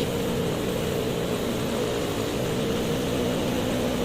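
A steady mechanical drone with a constant hum, running evenly without change.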